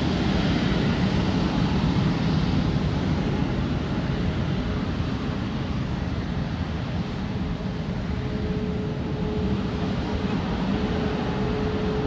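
Airliner engines running with a steady noise, a little louder in the first few seconds, with a faint steady whine setting in about halfway through.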